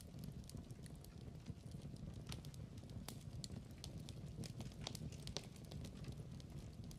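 Log fire crackling in a fireplace: irregular sharp pops and snaps over a soft, steady low rumble of the flames.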